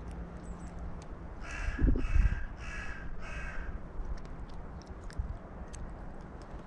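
Carrion crow cawing four times in an even series, each caw short and harsh. A low thump sounds under the first two caws.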